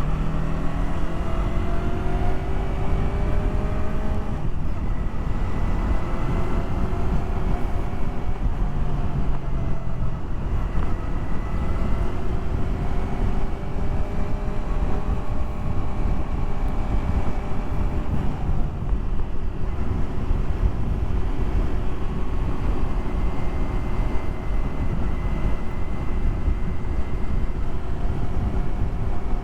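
Yamaha R3 parallel-twin motorcycle engine running under way, with a heavy low rumble of wind on the microphone. The engine note climbs, breaks at a gear change about four seconds in, climbs again, then holds steady for the rest of the stretch.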